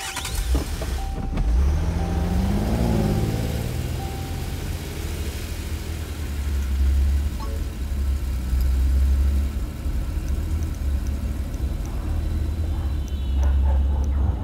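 Car engine running with a steady low rumble, rising briefly in pitch about two to three seconds in, as if revved.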